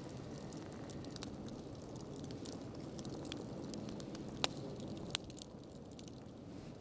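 Campfire burning with a low steady rush and a few sharp crackles and pops, the loudest about four and a half seconds in.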